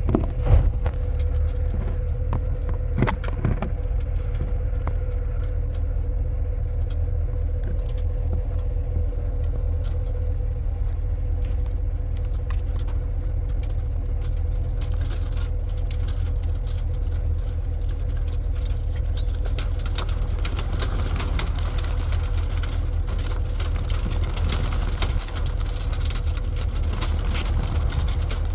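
Steady low rumble of an idling vehicle engine with a constant hum, joined by scattered light clicks and taps that grow more frequent in the second half, and one short rising chirp.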